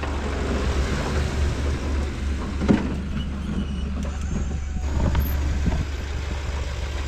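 A snowplow vehicle's engine running with a steady low rumble, with a few sharp knocks, the loudest about a third of the way in.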